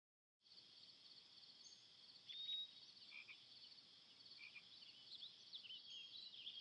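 Faint outdoor ambience: a steady, high, rapidly pulsing chorus of insect or frog calls comes in about half a second in, with a few short chirps on top, the loudest about two and a half seconds in.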